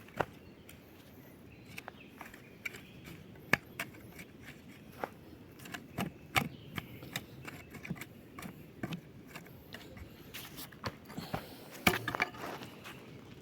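Irregular light knocks, clicks and rustling of ground being cleared and worked by hand, with a denser, louder cluster of clicks near the end.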